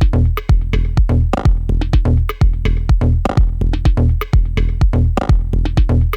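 Dub-techno drum-machine groove programmed in Native Instruments Maschine, playing in a loop: a steady kick drum at about two beats a second with crisp hi-hat-like percussion between the beats.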